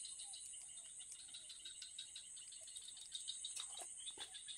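Fishing reel being cranked during a lure retrieve: a faint, rapid rattle of light clicks over a steady high insect drone.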